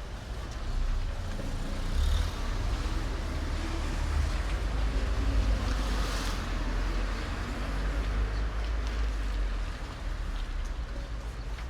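A vehicle passing on a wet road: tyre hiss swells to a peak about six seconds in and fades, over a low rumble.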